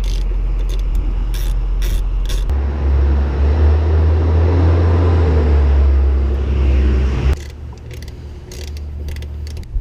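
A wrench ratchet is clicking in irregular short strokes as engine bolts are worked loose, over a steady low hum. A louder low rumble comes in about two and a half seconds in, lasts some five seconds and stops abruptly.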